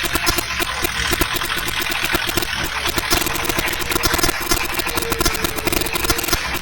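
A heavy vehicle's engine running steadily, with fast, even firing pulses and a faint whine coming in now and then.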